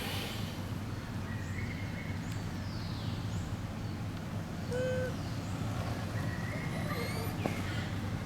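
A few short, high-pitched animal calls and chirps, spaced a second or two apart: one falls in pitch, and a quick run of rising chirps comes near the end. They sit over a steady low hum.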